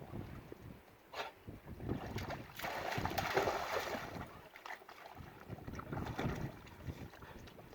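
Wind rumbling and buffeting on the microphone in uneven gusts, with scattered short rustles and knocks.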